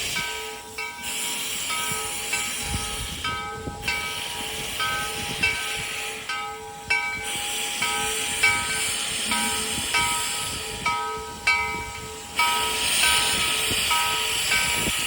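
2-8-0 steam locomotive No. 81 hissing steam, the hiss dropping out briefly several times. Over it, short clear ringing notes repeat about twice a second.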